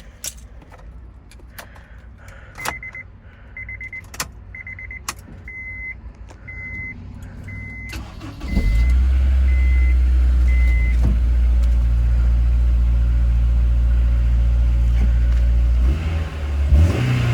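A few clicks, then a chime beeping about once a second. About eight seconds in, the 2007 Honda S2000's 2.2-litre four-cylinder engine starts on the push button and settles into a steady idle, with a short rev and drop near the end.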